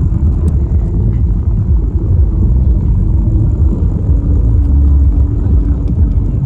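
Wind buffeting the microphone of a camera riding along on a bicycle: a loud, steady low rumble, with a faint steady hum underneath.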